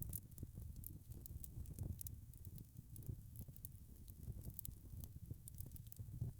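Wood fire crackling: frequent small sharp pops and snaps from burning logs over a low, steady rumble of flame.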